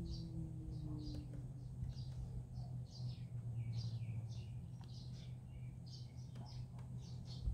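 Small birds chirping, short high calls repeating two or three times a second, over a steady low hum.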